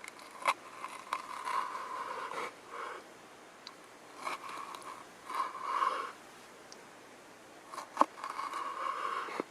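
Knife cutting vegetables on a cutting board: repeated crunching, scraping strokes through the vegetables, with a few sharp knocks of the blade on the board, the loudest about eight seconds in.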